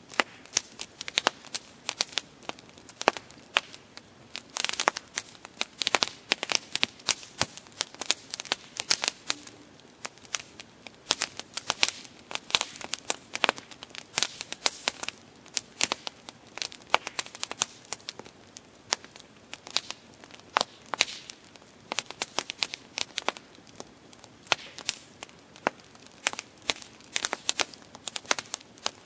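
Campfire burning, wood crackling and popping in a dense, irregular stream of sharp snaps, with a short flurry of denser crackling about five seconds in.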